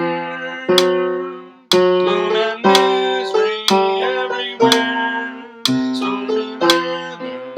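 Guitar accompaniment: chords plucked about once a second, each ringing out and fading before the next.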